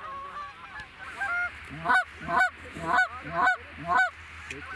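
Goose honking: a few softer honks at first, then about two seconds in a run of five loud, sharp honks, about two a second.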